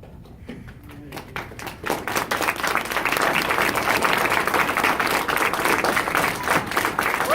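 Audience applause: a few scattered claps that build over the first two seconds into steady, dense clapping.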